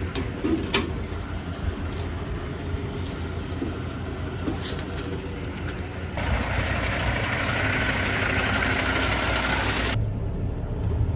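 Semi truck's diesel engine running at low speed, heard from inside the cab, with a couple of sharp clicks about a second in. A steady hiss joins it from about six seconds in and stops sharply about four seconds later.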